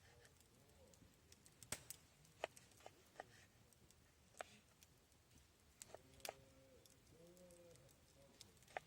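Near silence broken by sparse sharp clicks and snaps, with a few short, low cooing calls about six to eight seconds in.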